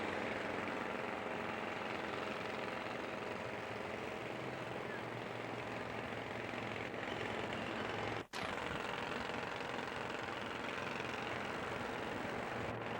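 Steady road-traffic noise from vehicles passing on an interstate highway, an even rush with a faint low engine hum. It cuts out for an instant a little over eight seconds in.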